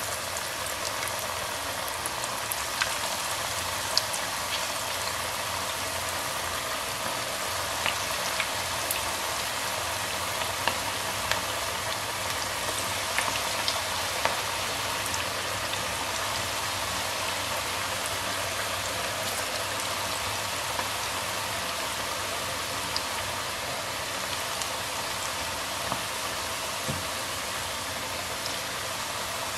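Cabbage pakoras deep-frying in a pan of hot oil: a steady sizzle with scattered crackles and pops.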